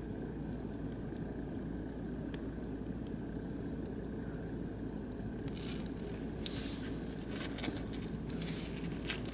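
Oak and beech logs burning in a barbecue grill, crackling with scattered small pops over a steady low rush, with two short bursts of hissing, one a little past the middle and one near the end.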